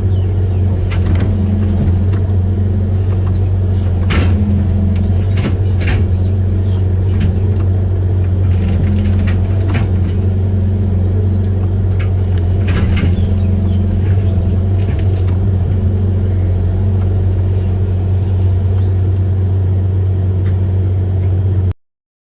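Amphibious excavator's diesel engine running steadily with a deep, even drone, with scattered light knocks and clicks over it. The sound cuts off suddenly near the end.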